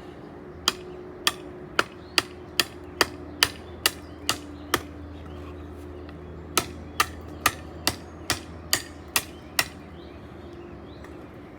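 Large Damascus Bowie knife chopping into a hard wooden branch: sharp blows about two a second, ten in a row, a pause of about two seconds, then eight more.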